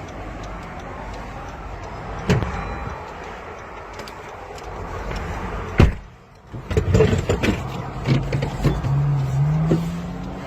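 Dashcam audio from a car on the road: steady road noise, a sharp loud bang about six seconds in, then after a brief drop engine noise rising in steps amid rattling knocks.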